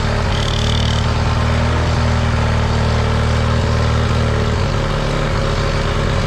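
Parsun 25 hp outboard motor running steadily on its newly replaced carburetor, with a slight change in engine note near the end.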